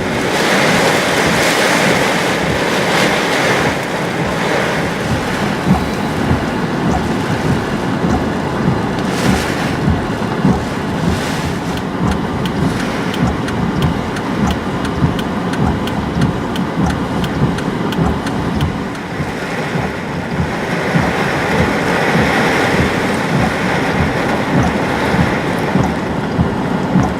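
Hurricane Florence's wind and driving rain, a loud continuous roar with many sharp ticks of rain striking close by. It swells in gusts near the start and again about three quarters of the way through.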